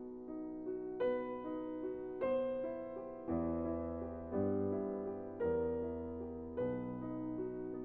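Background piano music: a slow, gentle piece with a new chord struck about once a second.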